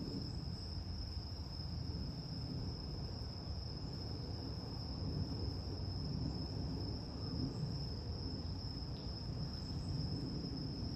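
A steady, unbroken high-pitched insect trill, like a chorus of crickets, with a low rumble underneath.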